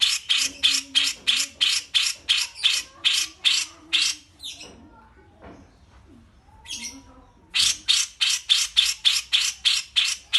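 A bulbul, cucak jenggot or kapas tembak, calls a rapid series of short, harsh, scratchy notes at about four a second. It breaks off about four and a half seconds in, gives a brief note or two, then resumes the same rapid series about three seconds later.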